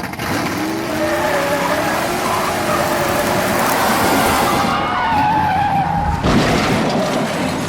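Car tyres squealing in a long skid over loud road noise, the squeal wavering in pitch; the high hiss drops away about five seconds in and the sound changes abruptly a little after six seconds.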